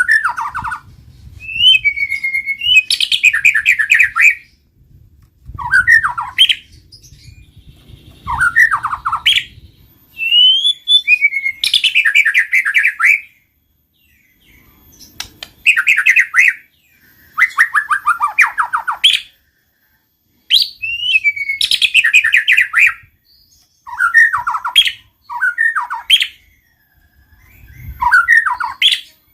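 White-rumped shama in full song, delivering loud phrases of sweeping whistles and rapid trills, each lasting a second or two, with short pauses between them.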